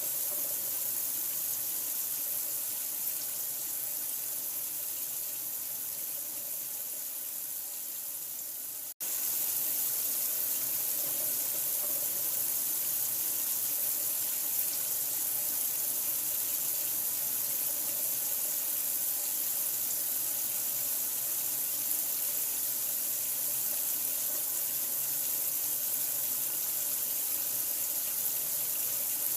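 Steady running water, an even rushing hiss with no change in pitch. It breaks off for an instant about nine seconds in, then carries on the same.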